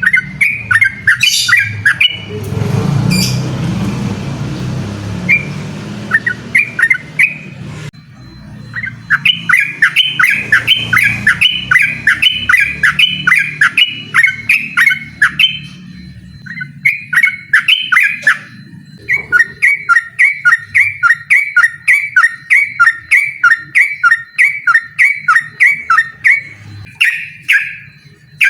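Yellow-vented bulbul singing long, fast runs of short repeated chattering notes, about three a second: the rapid-fire "ropel" song used to challenge a rival. A few seconds in, a low rushing noise rises under the song for several seconds.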